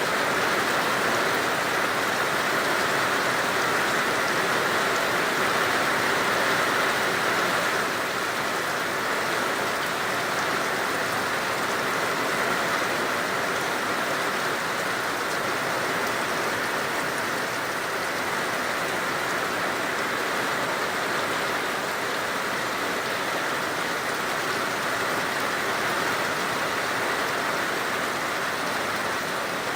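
Heavy rain falling steadily in a downpour, a continuous even hiss, easing a little about eight seconds in.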